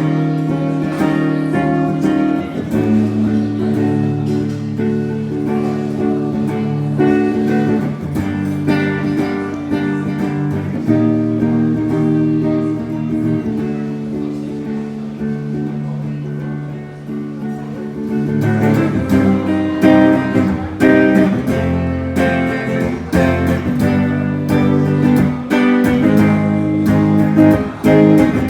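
Guitar-led instrumental break of a song played live, with no singing. The music grows louder and fuller about two-thirds of the way through.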